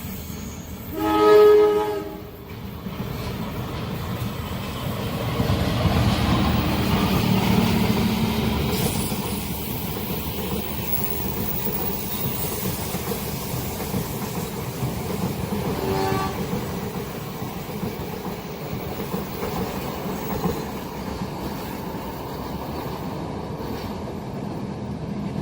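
Train horn giving a short blast about a second in, then a long train passing with a steady rumble and wheel clatter, loudest a few seconds later. A second, brief horn note comes about sixteen seconds in.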